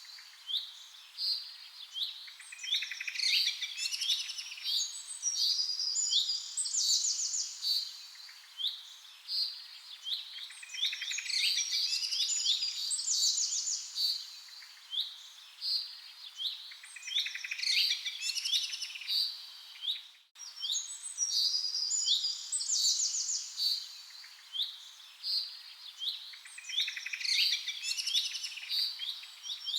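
Several songbirds chirping, with quick chirps and fast trills. The same few seconds of song repeat about every seven and a half seconds as a loop, with a brief dropout about twenty seconds in.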